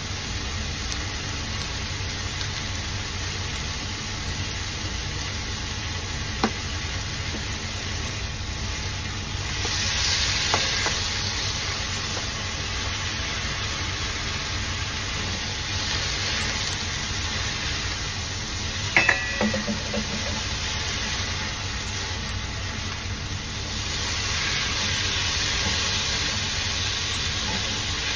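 Chicken and onion slices sizzling in a nonstick frying pan while a silicone spatula stirs them, with a few light knocks as sliced mushrooms are scraped in from a metal bowl. The sizzle grows louder about ten seconds in and again near the end.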